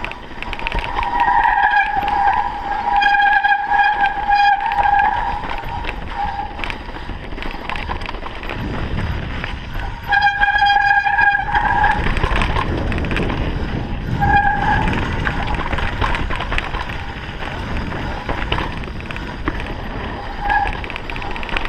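Mountain bike brakes squealing in long steady bursts, over the clatter of the bike and wind on a rough downhill descent. There is a long squeal early on and another about ten seconds in, then two short ones later.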